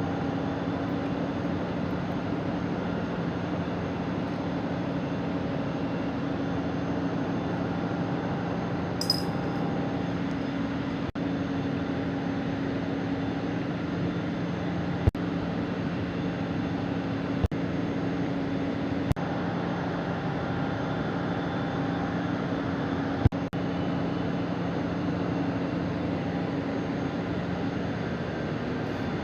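Steady machine hum with a few short, sharp clicks.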